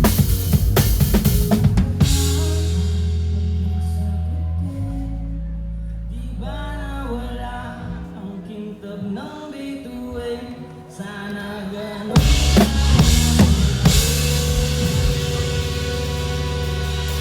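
Live band playing a pop song, heard from the drum kit: dense drum hits for the first couple of seconds, then the drums drop out under held bass notes, chords and a melody line. The full kit comes back in about twelve seconds in.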